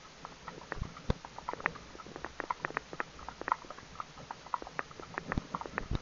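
Hooves of two horses walking on a paved road: an irregular clatter of clip-clops, several a second.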